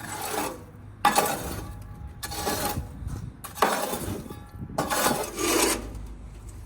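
Lumps of charcoal tumbling and clinking against each other and the grill, in about five bursts roughly a second apart.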